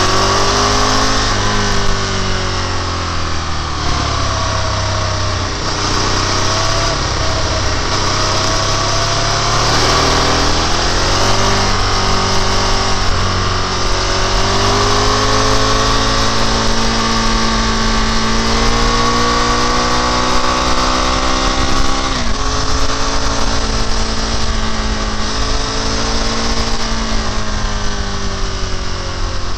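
Motorcycle engine under way, revs climbing in each gear and dropping at the shifts several times, with a steady rush of wind noise.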